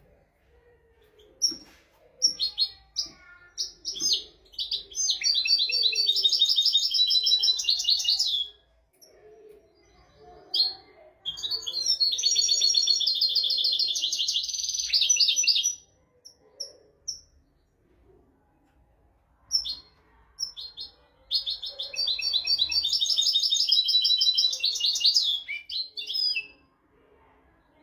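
European goldfinch singing: three long phrases of rapid twittering notes, with short single chirps between them.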